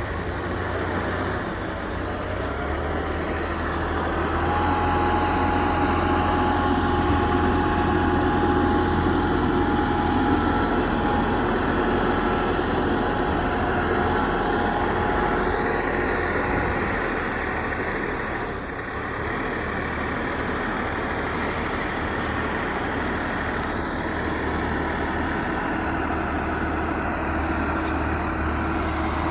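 Farm tractor engines running steadily, louder from about four seconds in and easing off around eighteen seconds, with a steady whine over the engine through the middle.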